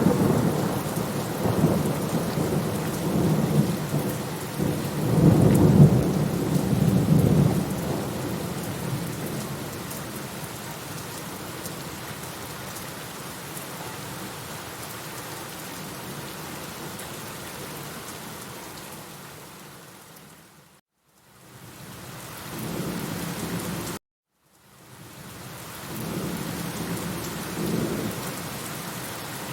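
Steady rain falling, with rolling thunder rumbling through the first several seconds. About two-thirds through the sound fades to silence and comes back, then cuts off abruptly for about a second before fading in again with more low thunder rumbles.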